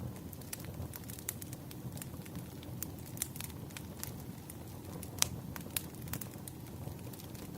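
Wood campfire burning with a steady low rumble and irregular crackles and pops, one sharper pop about five seconds in.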